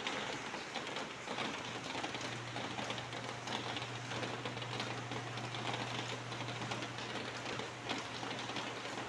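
Steady rain pattering on a surface, a dense mass of fine drop ticks, with a steady low hum underneath.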